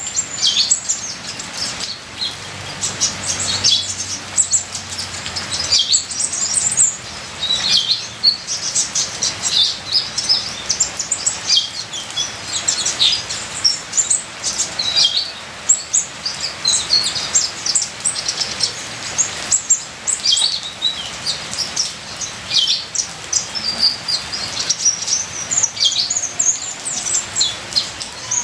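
A kolibri ninja sunbird singing a fast, unbroken run of high, thin chirps and twitters. Steady trickling water sounds beneath it.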